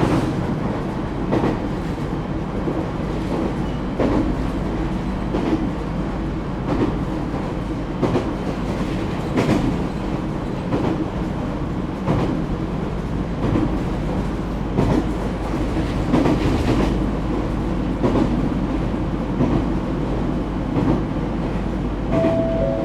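Interior running sound of an ET127 series electric train (Toyo GTO-VVVF) travelling at speed: a steady rumble with wheels clicking over rail joints about every second and a half. A short steady tone comes in near the end.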